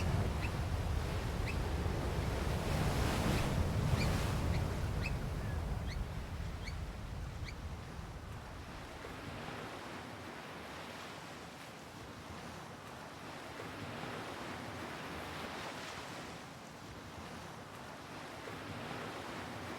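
Surf washing on a beach, with a low wind rumble that fades after the first several seconds. Over the first seven seconds or so come a series of faint, short, high piping calls, typical of African black oystercatchers.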